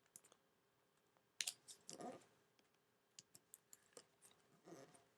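Faint paper handling: a sheet of origami paper being unfolded and creased by hand, with scattered soft crinkles and clicks, the sharpest about one and a half seconds in.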